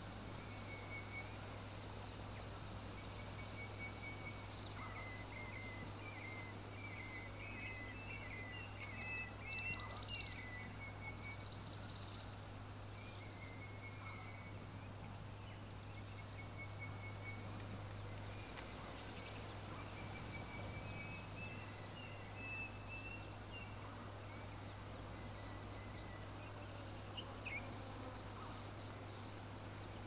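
Faint, high bird chirps in quick runs of short notes, over a steady low hum.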